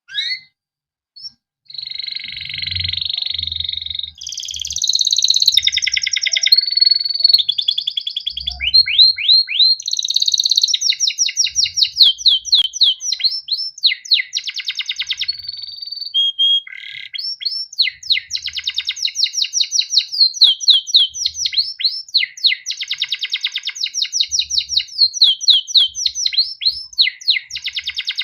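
Male domestic canary singing a long, continuous song: buzzy trills and rolls that give way to long runs of rapid, repeated chirping notes, the 'cuit cuit ngerol' style that keepers use as a master song to draw out other canaries.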